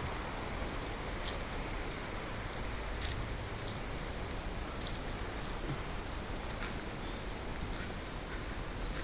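Footsteps crunching and rustling on dry ground, crisp crackles at irregular intervals of about a second, over a steady outdoor hiss with a low wind rumble on the microphone.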